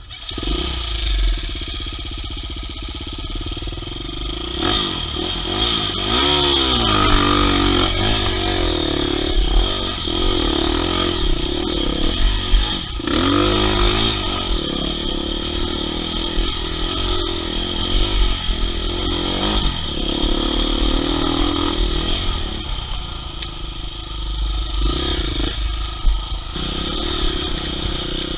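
Enduro dirt bike engine running under way on a trail, revving up and down with the throttle; the pitch sweeps up and back down clearly twice, about a quarter and about halfway through.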